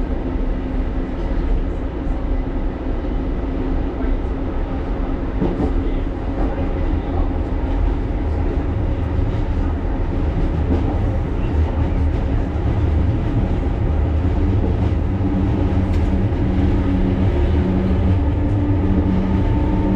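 A 1938 Tube Stock train running, heard from inside the carriage: a steady rumble of wheels on the rails, with a steady hum that grows louder in the second half.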